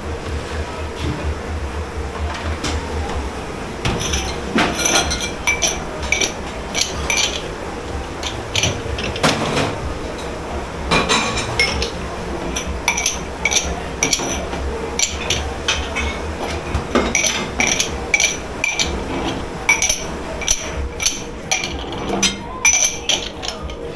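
Crockery, glasses and cutlery clinking and clattering as they are handled and stacked in a commercial kitchen dish pit, starting about four seconds in, over a steady low machine hum.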